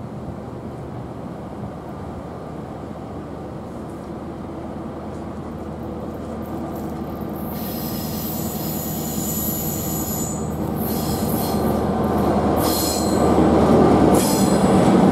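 Norfolk Southern diesel locomotives approaching and growing steadily louder with a low engine drone. From about seven or eight seconds in, high-pitched wheel flange squeal comes in and recurs, from wheels grinding against the rail on the tight curve.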